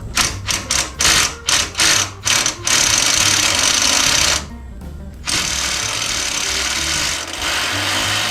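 Impact wrench hammering on a seized bolt. It fires in about six short bursts, then runs in long steady stretches with a brief pause around the middle.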